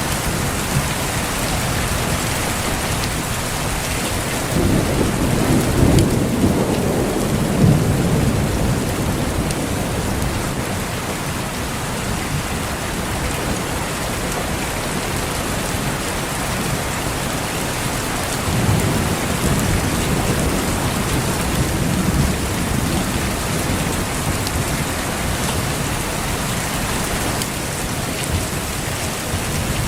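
Steady heavy rain pattering, with two low rolls of thunder: one about five seconds in lasting a few seconds, another a little before twenty seconds in.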